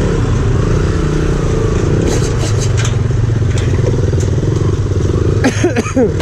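Motorcycle engine running steadily under way, with a few rattles, and a brief burst of clatter just before the end.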